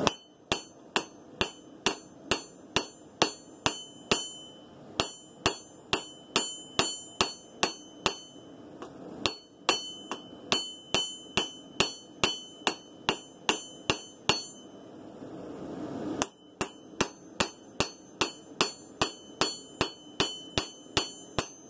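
Hand hammer striking a hot san mai steel blade on an anvil, forging out the edge. About two to three blows a second, each with a bright metallic ring, in three runs separated by two short pauses.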